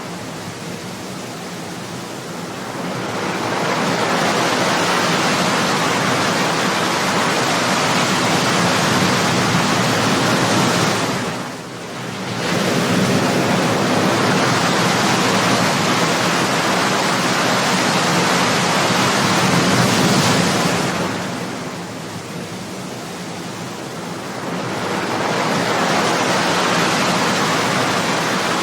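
Ocean surf breaking: a steady rush of waves that swells and eases in long surges, with brief lulls about twelve seconds in and again past twenty seconds.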